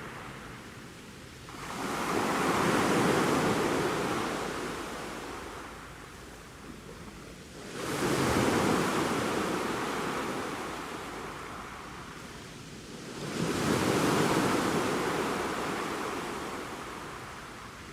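Ocean waves breaking and washing back, three swells of rushing surf about six seconds apart, each rising quickly and then fading slowly.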